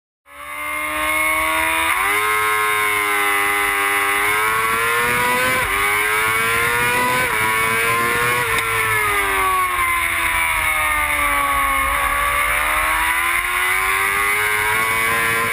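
A racing motorcycle engine running hard at high revs, its pitch climbing and falling as it accelerates and slows, with several sudden steps in pitch from gear changes.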